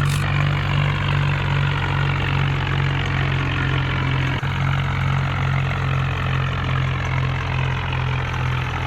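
Heavy diesel engine running steadily at a low, even speed, with a short dropout about halfway through.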